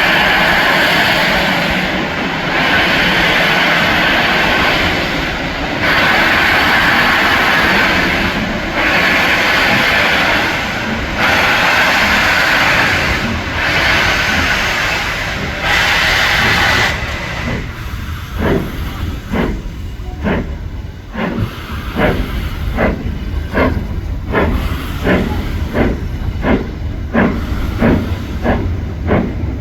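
Steam locomotive getting a train under way. Slow, long hissing exhaust blasts come about every two seconds. Some seventeen seconds in, they give way to short, sharp chuffs that gradually quicken as it picks up speed.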